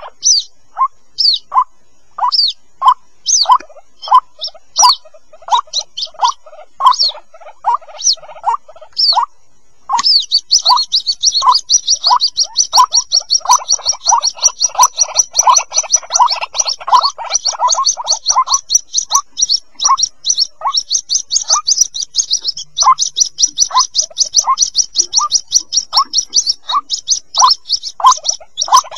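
White-breasted waterhen chicks calling: a short, sharp note repeated two to three times a second, and after a brief pause about nine seconds in, a rapid, continuous high-pitched chattering on top of it. It is a lure call used to draw waterhens in.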